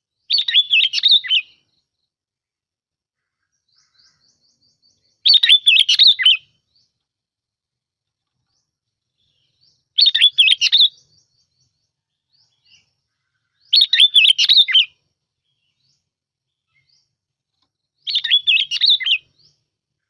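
Bông lau bulbul singing its lure song: five short, bubbling phrases, each about a second long, repeated every four to five seconds.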